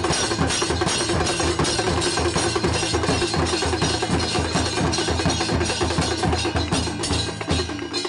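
Temple aarti drumming: dhol drums beaten in a fast, steady rhythm under dense clattering percussion. The playing drops off briefly near the end.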